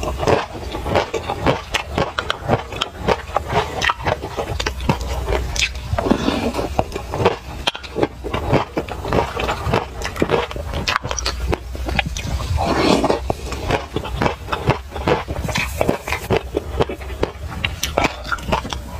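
Close-up chewing of a mouthful of sesame seeds: a dense run of small crunches and mouth clicks, with a plastic spoon scraping seeds from a glass mug.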